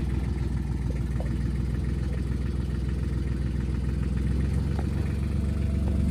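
A small farm tractor's diesel engine running steadily at low speed, with a few faint clicks about a second in.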